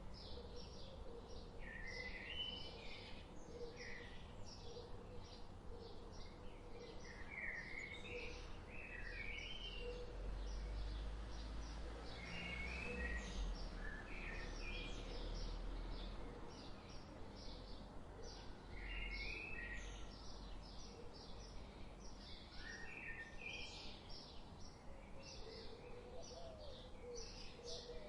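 Nature ambience of many small birds chirping and singing in short, rapid, repeated calls, over a low rumble that grows louder for a few seconds near the middle.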